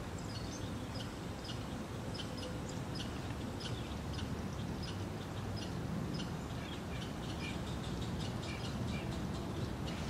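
Small birds chirping in many short, irregular calls over a steady low outdoor rumble.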